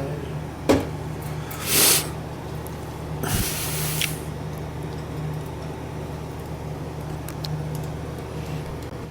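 A steady low mechanical hum. A sharp click comes about a second in, then two bursts of hissing; the longer one lasts nearly a second, a little past the three-second mark.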